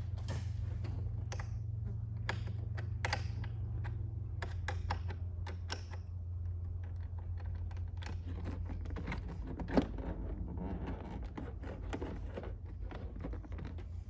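Irregular small clicks and taps of hand tools working the car battery's negative terminal to disconnect the ground cable, with one sharper knock about ten seconds in. A steady low hum runs underneath.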